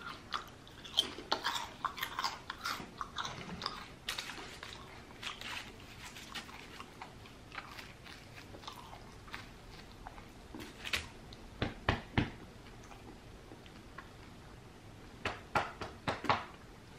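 Close-miked crunching and chewing of potato chips, dense sharp crunches over the first few seconds, then softer chewing broken by a few clusters of crunches later on.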